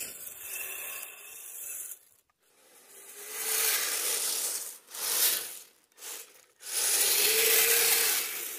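Radio-controlled vehicles' small electric motors driving in surges of a second or two, with a faint whine rising and falling during the longer bursts, as the vehicles scrape and churn over snow and ice.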